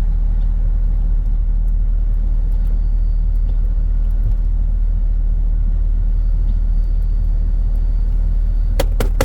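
Truck driving, a steady low rumble, with a few sharp clicks near the end.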